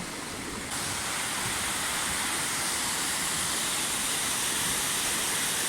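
Steady rush of flowing river water, growing louder and brighter just under a second in.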